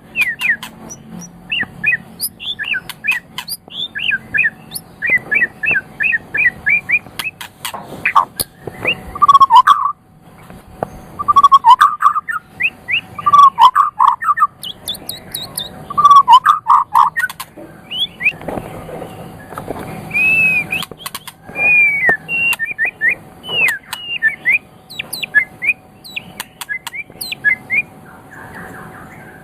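White-rumped shama (murai batu) singing a varied song: quick runs of short high chirps and whistles, with several loud, lower whistled phrases in the middle and sharp clicks between the notes.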